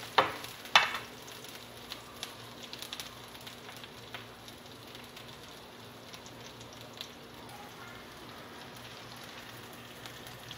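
Sliced shallots and garlic sizzling in hot oil in a wok, left to wilt. A couple of knocks of a wooden spatula against the pan come in the first second, then a steady sizzle with small scattered pops.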